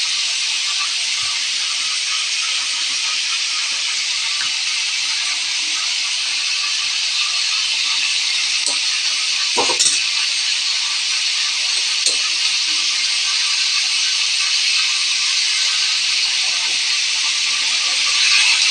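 Pork chops frying in hot oil in a wok, a steady sizzle. A couple of short clicks sound about ten and twelve seconds in.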